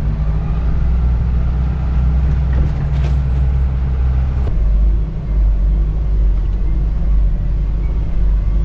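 Isuzu NPS 4x4 truck's diesel engine running as the truck drives along a sand track, a steady low drone. About four and a half seconds in, its pitch drops and the level dips briefly as the engine eases off, then it carries on.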